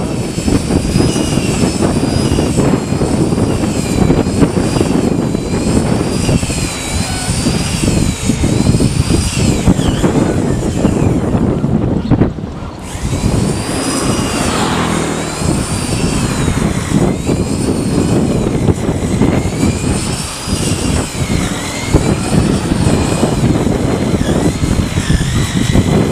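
Loud steady machine noise with a high thin whine that wavers up and down in pitch about once a second, briefly dropping out about halfway through.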